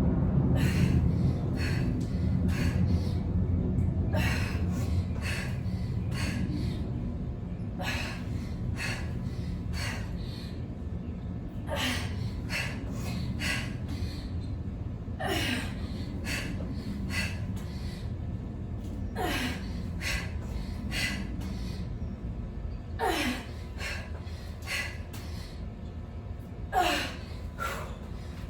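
A woman breathing hard through a set of push-ups, with quick breaths about two a second. Every few seconds she gives a short voiced exhale that drops in pitch: the strain of a hard set.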